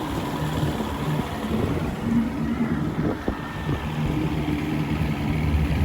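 Small boat's motor running steady and low under wind noise on the microphone.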